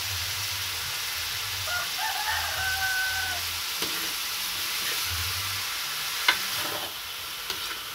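Winged beans sizzling as they stir-fry in an aluminium wok, with a metal spatula knocking against the wok a couple of times in the second half. A rooster crows in the background about two seconds in.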